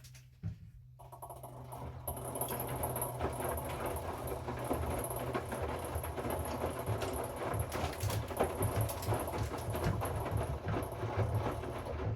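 Hoover washing machine working through its cycle, with a dense patter of the drum tumbling the wet load that starts about a second in and builds up, over a steady low hum.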